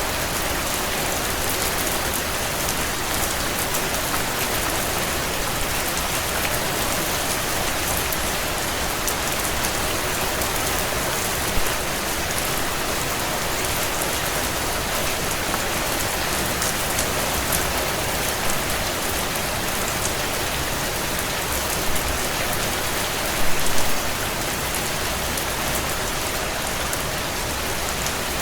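Steady heavy rain on window glass, with the light crackle of a wood fire in a stone fireplace: small ticks throughout and a few louder pops, once near the middle and a quick cluster about four fifths of the way in.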